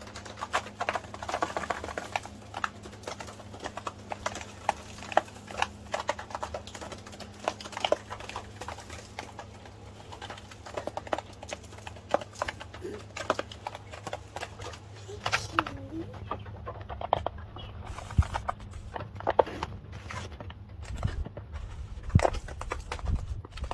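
Coturnix quail dust-bathing in sand: irregular rapid pattering and scratching ticks of sand being scratched and flicked, with a few soft low bird calls partway through.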